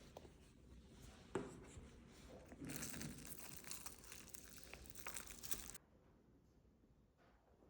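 Faint crinkling and rustling, with a sharp click about a second and a half in; the rustling grows a little louder midway, then cuts off suddenly, leaving near silence.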